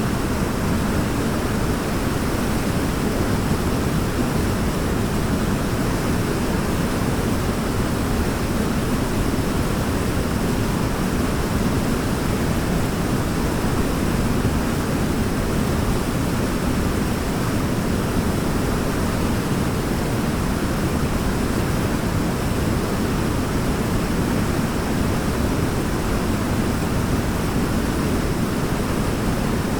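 Waterfall: falling water rushing steadily, a deep, even sound with no breaks.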